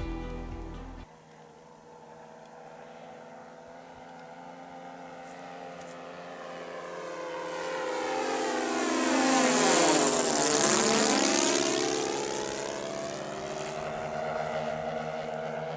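Radio-control Beechcraft Baron G58 model's twin O.S. FS-α56 four-stroke glow engines droning through a fly-by. The sound builds, is loudest about ten seconds in as the plane passes, then fades as it moves away.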